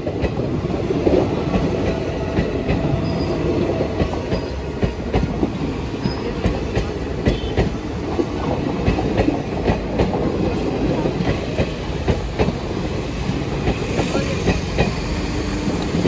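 Train coaches rolling past at close range: a steady rumble of wheels on the rails with frequent clicks and knocks as the wheels cross rail joints.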